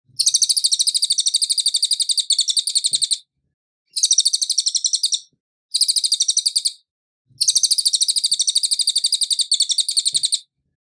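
A cililin singing: four high, rapid trills of about ten notes a second, two long and two short, with short pauses between them.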